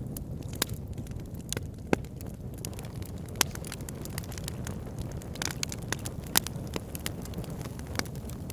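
Wood fire burning in a fireplace: a steady low rush of flames with sharp crackles and pops at uneven intervals, a few of them louder than the rest.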